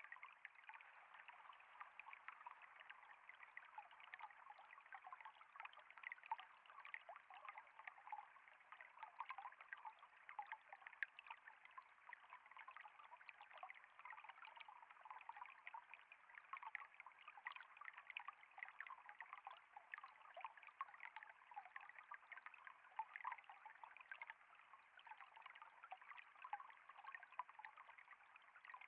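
Water trickling and flowing steadily, a faint unbroken stream of many small splashes.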